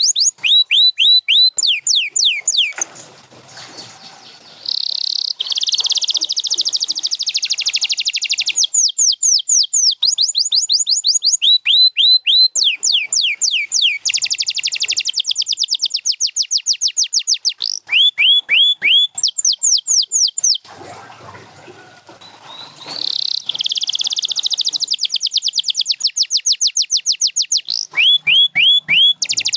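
Canary singing: long runs of quickly repeated sweeping notes alternating with fast, dense trills. There are two short pauses, about three seconds and about twenty-one seconds in.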